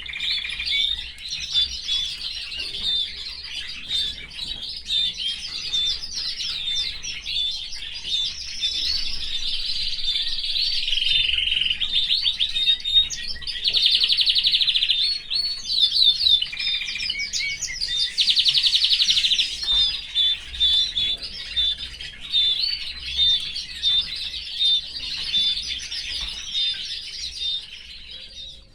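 Domestic canary singing a long, continuous song of warbles and fast rolling trills, stopping near the end.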